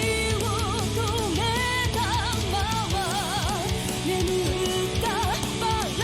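Heavy J-rock song playing: a full band with a dense low end under a high lead melody that wavers with strong vibrato.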